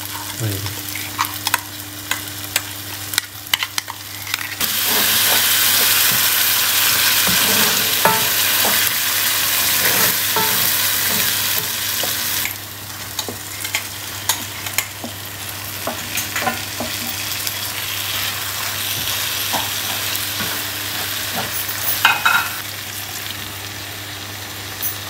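Curry frying and sizzling in a nonstick pan while a wooden spoon stirs and scrapes, with frequent small clicks of the spoon against the pan. The sizzling grows much louder about four and a half seconds in and drops back about twelve seconds in, over a low steady hum.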